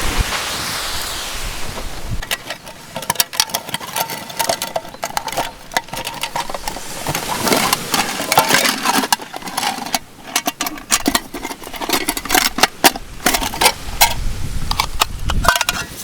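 Wind and surf noise for about two seconds, then a long run of close, irregular clicks, knocks and clatter, with brief ringing tones, as of small hard objects being handled.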